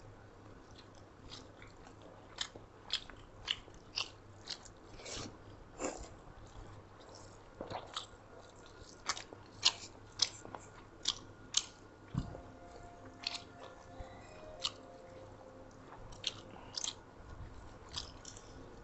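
Close-up eating sounds of people chewing pork and chicken with rice: a run of short, irregular wet smacks and chewing clicks, about one or two a second.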